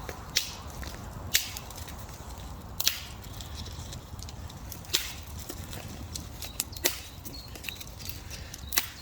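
Wood campfire of dry fallen branches crackling, with a handful of sharp pops at irregular gaps of one to two seconds and fainter ticks between them.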